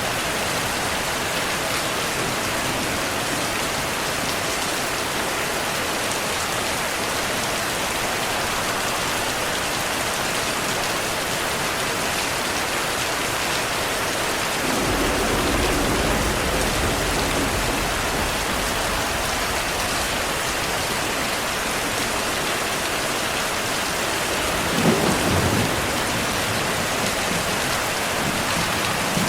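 Heavy rain falling steadily, with a rumble of thunder about halfway through and a short, sharper thunderclap near the end.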